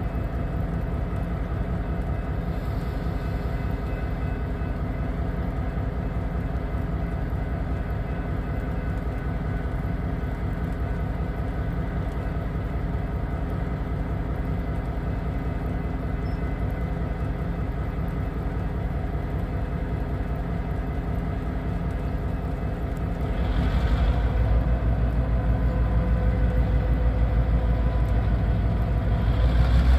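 Diesel locomotive engine running steadily, then getting louder with a stronger low rumble about three quarters of the way through, and again near the end.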